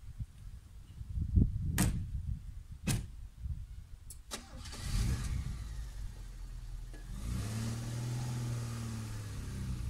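A few sharp knocks, then a car engine starting and running, its low tone swelling and easing in pitch near the end.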